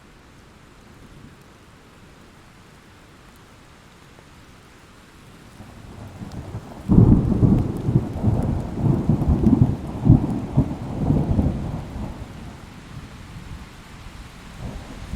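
Steady rain falling, then about seven seconds in a thunderclap breaks with a sudden crack and rolls on as a crackling rumble for about five seconds before fading back into the rain.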